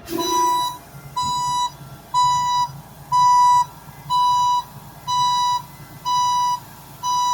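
Heavy vehicle's backup alarm beeping, about one half-second beep a second, eight times, over a low rumble.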